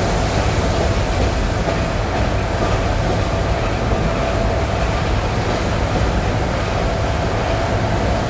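ED9E electric multiple unit heard from inside the passenger car while running between stations: a steady rumble with the wheels knocking over the joints of jointed rail and a steady mid-pitched whine.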